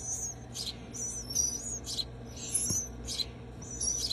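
Nestling birds giving high-pitched begging chirps, short calls repeated about twice a second, the hungry begging of chicks waiting to be hand-fed.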